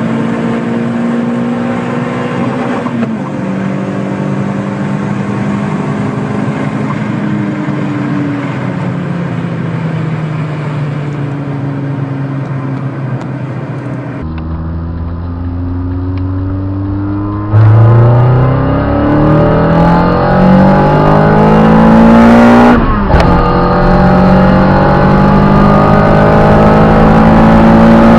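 Small petrol hatchback engine accelerating through the gears, its note climbing with the revs and dropping at each upshift. About fourteen seconds in the sound changes abruptly to another run. From about seventeen seconds it gets much louder, revving up hard through several quick shifts.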